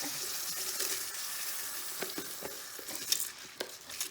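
Rice, vegetables and whole spices sizzling in hot oil in a pot as they are stirred with a spoon, with a few clicks and scrapes of the spoon against the pot. The sizzle thins out about three seconds in as the added rice cools the oil.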